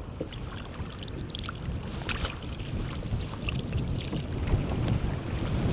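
Strong wind buffeting the microphone in a low, uneven rumble, with small splashes and knocks of water against a kayak scattered through it, growing a little louder toward the end.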